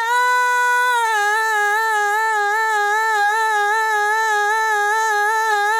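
A woman's sung vowel held as one long note, stretched by splitting a slice of the pitch-tuned vocal and pasting copies of it end to end. It holds steady for about a second, drops slightly in pitch, then wobbles evenly about twice a second.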